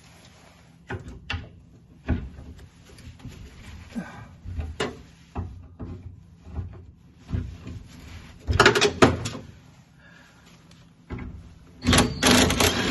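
Irregular metal knocks, clunks and rattles from door glass and window hardware being worked loose inside a 1967 Mustang door shell. A louder clatter comes about eight and a half seconds in and another near the end.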